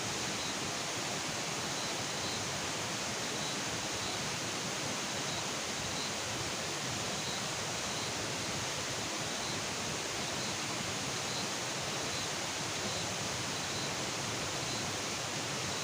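Steady, even outdoor night ambience: a continuous hiss with faint high chirps repeating at a regular pace.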